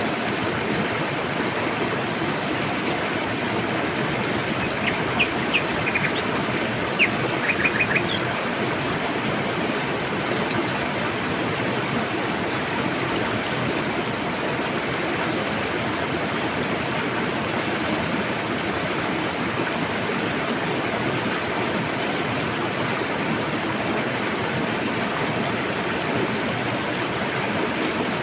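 Rushing river water making a steady, unbroken wash. A bird gives a few quick high chirps about five seconds in and again around seven to eight seconds in.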